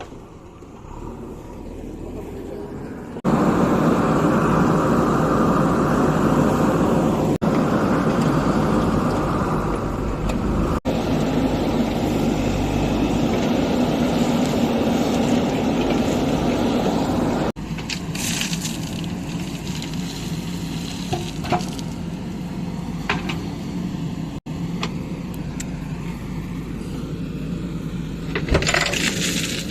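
Heavy diesel engines of construction vehicles, a stuck loaded dumper truck and a JCB backhoe loader, running hard, in several short clips that cut abruptly from one to the next; loudest through the first half, steadier and somewhat quieter later.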